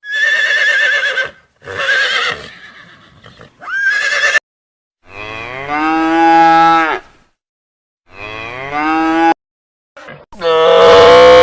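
Cattle mooing: a run of separate calls about a second or two long with short silences between, a long low moo in the middle and a louder call with a rising pitch near the end.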